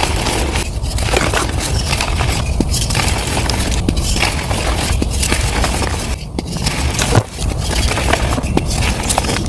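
Blocks of gym chalk being crushed and crumbling, played back at double speed: a dense run of crunching and crackling with brief pauses every second or two.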